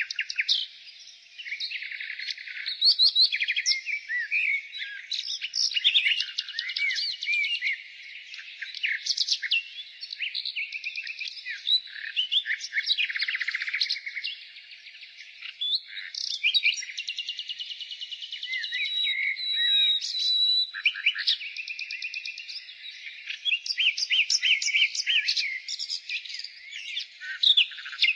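Nightingale singing a continuous, varied song of rapid repeated notes, trills and whistled glides, broken by short pauses between phrases.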